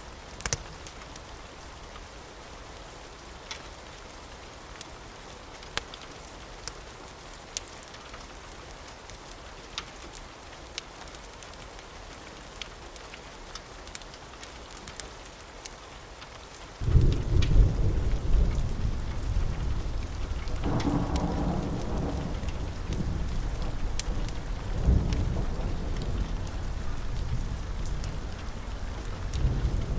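Steady rain with scattered sharp pops, then, just past the halfway point, a sudden loud crack of thunder that rolls on as a deep rumble, swelling again twice.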